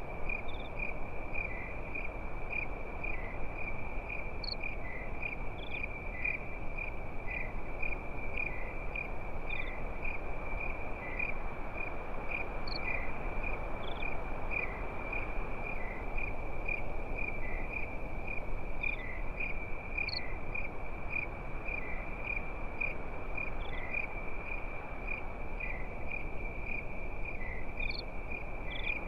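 Crickets at night: one trilling steadily, another chirping in a regular pulse a little faster than once a second, with an occasional higher chirp. A soft steady hiss sits underneath.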